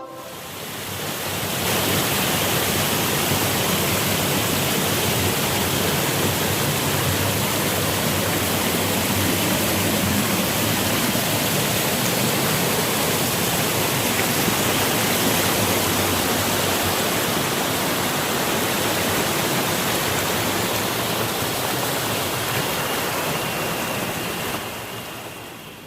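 Steady, even rushing noise, like water or wind, that fades in at the start and fades out near the end.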